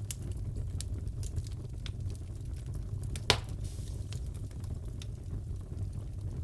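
Wood fire crackling in a fireplace: a steady low rumble with scattered crackles and one louder pop about halfway through.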